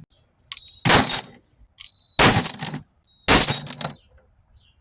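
Three sharp metallic clanks about a second apart, each with a short bright ring, as pieces of scrap copper tubing and steel rod are handled and dropped.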